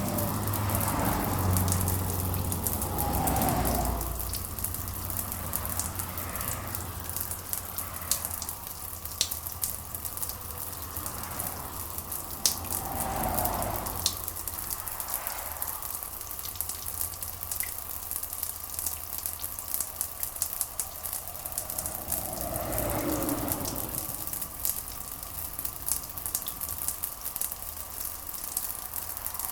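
Steady rain hiss with a dense crackling patter of drops. Three slow, low swells rise and fade about ten seconds apart.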